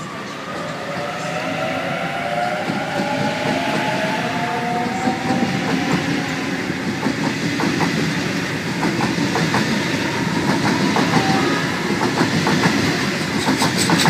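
Sydney Trains Waratah (A set) electric train pulling away from the platform, its traction motors whining with a slowly rising pitch as it accelerates, then its wheels clicking over rail joints more and more often.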